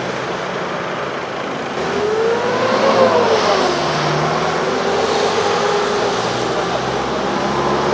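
Motor vehicle traffic: a vehicle passes close by about two seconds in, its engine pitch rising then falling, over a steady traffic hum.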